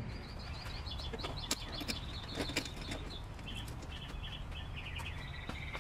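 Small birds chirping in short repeated phrases over a low steady hum, with a few faint clicks.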